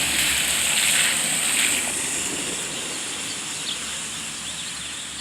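Road and tyre noise of a passing vehicle fading away as it drives off, with a few faint bird chirps near the end.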